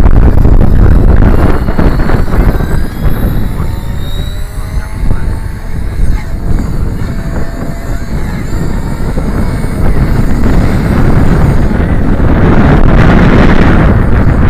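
Strong wind buffeting the microphone, with the whine of a Blade 360 CFX RC helicopter's electric motor and rotors faintly gliding up and down in pitch as it flies; the wind swells near the end.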